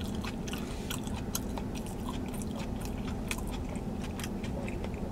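A man chewing a mouthful of Domino's loaded tater tots close to the microphone: many small mouth clicks and smacks, over a steady low hum in the car cabin.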